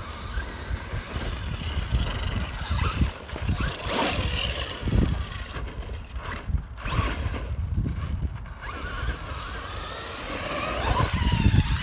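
Traxxas Hoss 4x4 VXL RC monster truck driving over dirt. Its brushless electric motor whines, rising and falling in pitch as the throttle is worked, with a few knocks from the truck hitting the ground and a steady rumble of wind and handling noise on the microphone.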